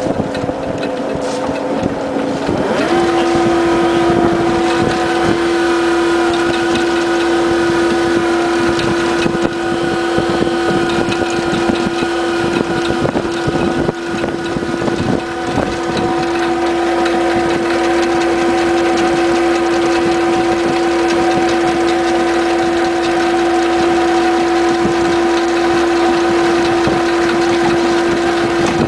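The chain ferry's engine running steadily, its hum stepping up in pitch about three seconds in and then holding level, with some wind on the microphone.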